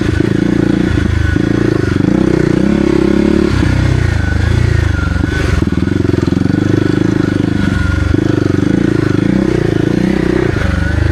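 Kawasaki KLX300R dirt bike's single-cylinder four-stroke engine, fitted with a Barker's aftermarket exhaust, running steadily loud with the pitch rising and falling as the throttle changes.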